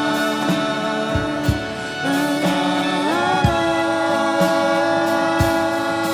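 Live performance of a slow song: a voice holds long, steady notes with a few slides between them over band accompaniment, with a low drum hit now and then.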